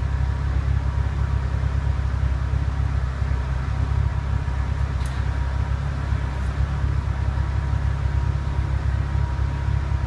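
Nissan Skyline Coupe exhaust with an aftermarket 5ZIGEN muffler, sports catalytic converter and centre pipe, running steadily at an even, unchanging engine speed with a low rumble.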